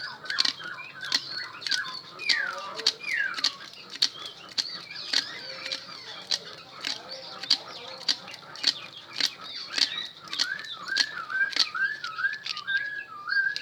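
Irregular sharp clicks and taps from hand work on a drill armature being rewound, with bird calls behind them: two falling whistles about two and a half seconds in and a quick run of short repeated chirps near the end.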